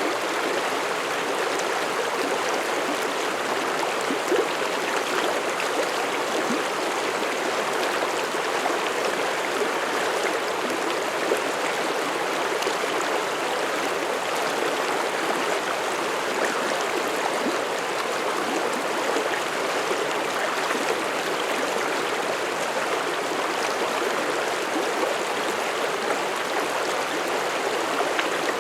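Mountain stream flowing over rocks: a steady rush of water with bubbling and splashing.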